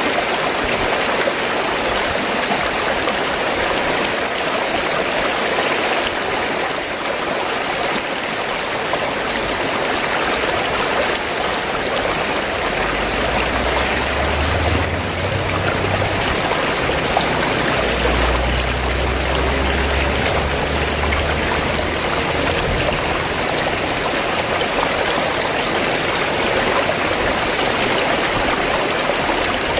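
Fast-flowing stream water rushing and gurgling, a steady unbroken noise, with a faint low rumble underneath through the middle.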